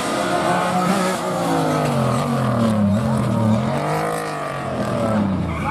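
Rally car engine revving up and down as the car drives through the stage, its pitch falling and rising several times with gear changes and lifts off the throttle.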